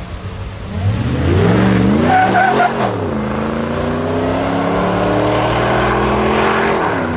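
A high-performance car engine accelerating hard away: the revs climb steeply for about two seconds, drop sharply, then hold a loud, slowly rising note before falling away near the end. A brief high squeal sounds at the peak of the first pull.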